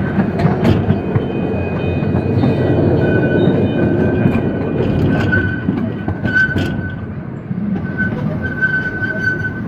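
Small zoo train rolling along narrow-gauge track, with a steady rumble of wheels on rail and scattered sharp clicks. A thin high wheel squeal on the curve joins from about three seconds in.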